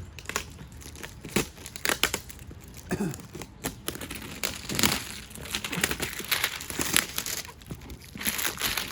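A box and its packaging being opened by hand: irregular crinkling, rustling and tearing with sharp crackles and handling knocks.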